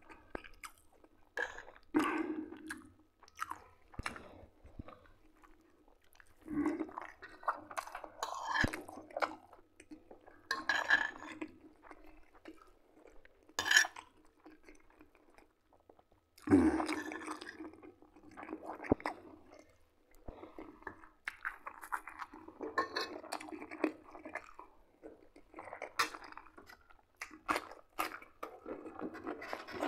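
Close-up chewing of buckwheat and liver patties, on and off in irregular bursts with wet mouth noises, and a few sharp clicks of a metal spoon against the plate.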